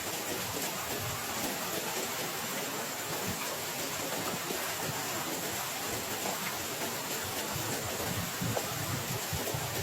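Heavy rain falling steadily, an even hiss with soft low thumps that come and go, more of them near the end.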